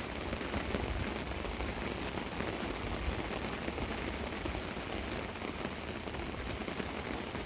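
Steady rain falling on a tarp: a dense, even patter of many small drops.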